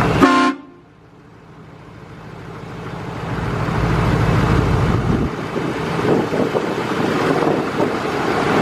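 Motor vehicle noise, a steady rumble without a clear pitch, swelling gradually over the first few seconds after music cuts off abruptly about half a second in.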